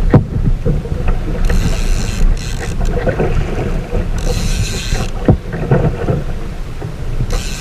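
Wind buffeting the microphone on a sea kayak in choppy water, a steady low rumble, with surges of water hissing and splashing against the hull every few seconds.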